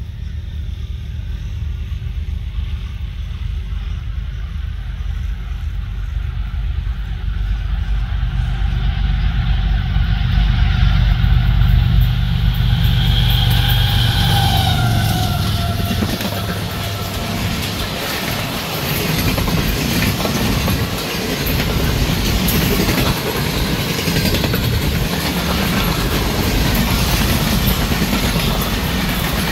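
Pakistan Railways Khyber Mail express passing at high speed. The diesel-electric locomotive's engine rumble builds as it approaches, and a high tone drops in pitch as it goes by about halfway through. Then the passenger coaches rush past, their wheels clattering over the rails.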